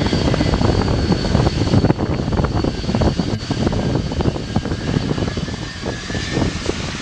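Jet airliner's engines running loud at close range: a dense rumble with a thin high whine that fades about four seconds in, and a fainter lower whine underneath.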